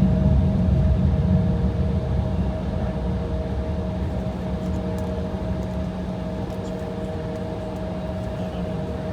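Steady hum inside a waiting Embraer E175's cabin, with the low rumble of a jet taking off from a nearby runway fading over the first several seconds.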